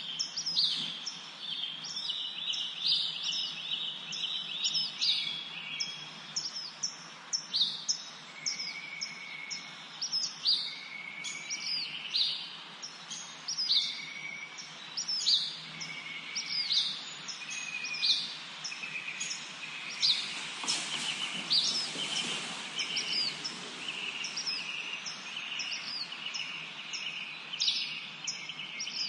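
Several songbirds singing and chirping at once, a dense chorus of quick high chirps and short falling whistles over a steady background hiss. A brief rush of noise, like a gust of wind, swells and fades about two-thirds of the way through.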